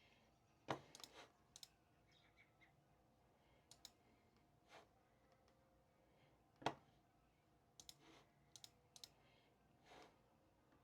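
Scattered light clicks and taps from someone working at a desk, coming irregularly, with two sharper knocks, one about a second in and one past the middle.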